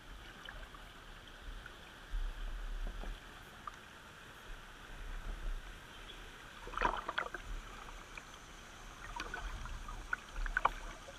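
Kayak paddle strokes splashing in a flowing river over a steady rush of moving water. Clusters of splashes come about two-thirds of the way through and again near the end.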